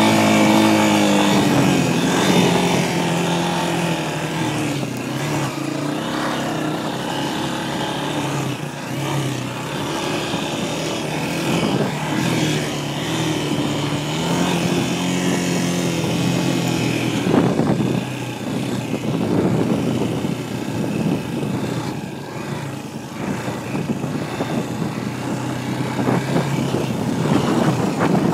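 Dirt bike engine running under way, its pitch rising and falling with the throttle over a constant rushing noise. Right at the end a higher engine note sweeps sharply downward.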